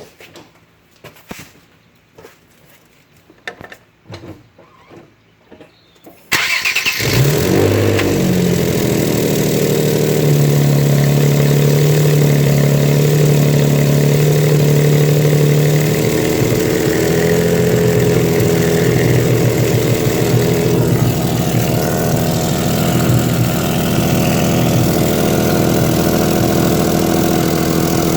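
A few light clicks, then about six seconds in a vehicle engine cranks, catches and runs steadily at idle, with a small shift in pitch partway through. The engine is running with an exhaust leak.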